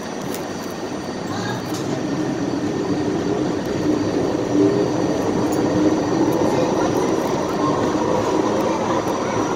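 Kawasaki R68A subway car rolling on the track with its traction motors howling, the motor hum growing louder from about two seconds in over the rumble of wheels on rail.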